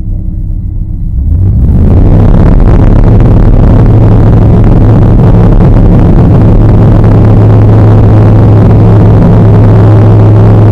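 Light aircraft's piston engine opening up to full power, its pitch stepping up over the first couple of seconds, then running steadily and loudly at full throttle.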